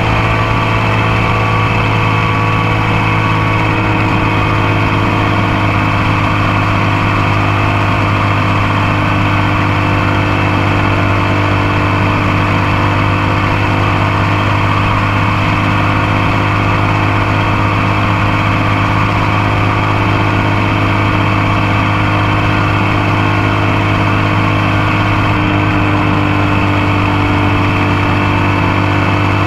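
Motorcycle engine running at a steady, nearly constant speed while riding, picked up close to the bike by a camera on the passenger foot peg.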